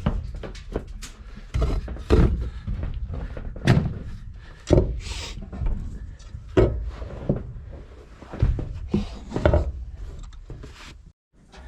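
A string of irregular heavy thuds and clunks, about ten knocks over the stretch, from metal being handled at the opening of a steel overhead feed bin.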